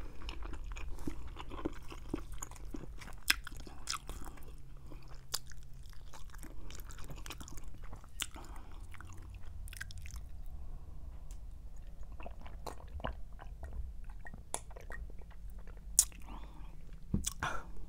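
Close-up chewing and wet mouth clicks of someone eating roasted chicken and fettuccine Alfredo, picked up by a clip-on microphone on the shirt. A faint low hum runs underneath.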